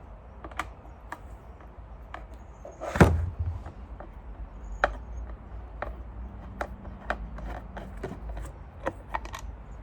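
Scattered clicks and knocks of a Dyson vacuum's plastic housing being handled while its last screw is taken out, with one louder knock about three seconds in.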